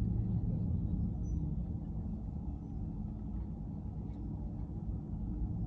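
Car driving, its engine and tyre noise making a steady low rumble.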